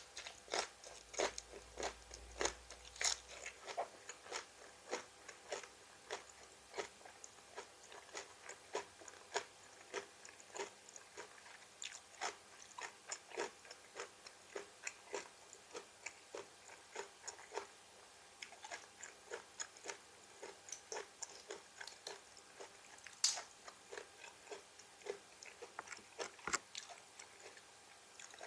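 Crisp raw vegetables being bitten and chewed: a continuous run of crunches, about two or three a second, with a louder bite at the start and another about two-thirds of the way through.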